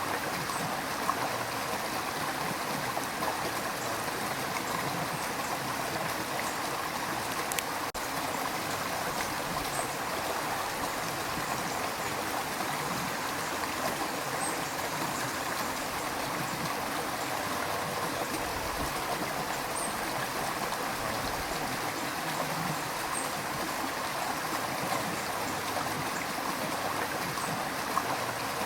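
River water rushing and burbling over rocks in a steady, unbroken wash, with faint splashes and trickles.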